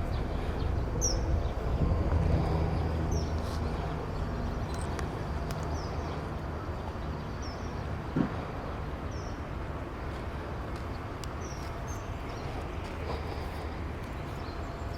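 Bird calls: short, high chirps repeated every second or two over a steady low rumble, with a single knock about eight seconds in.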